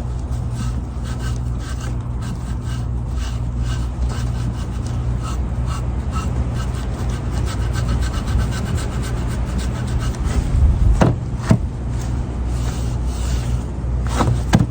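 Sandpaper rubbing and scraping over a wooden bench in repeated strokes, with a steady low hum underneath.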